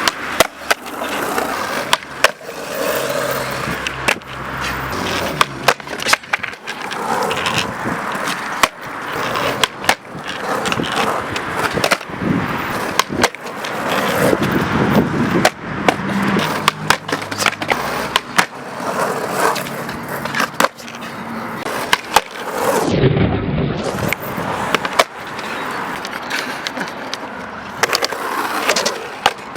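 Skateboard on extra-wide freeboard trucks with extensions: wheels rolling on pavement, broken again and again by sharp clacks of the board hitting the ground as tricks are tried.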